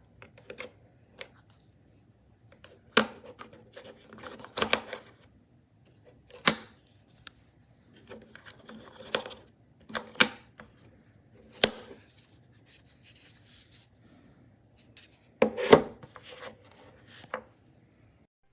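Irregular handling noises: scattered clicks, taps and short rubbing or scraping sounds, some spaced a second or two apart, with a cluster of louder knocks near the end.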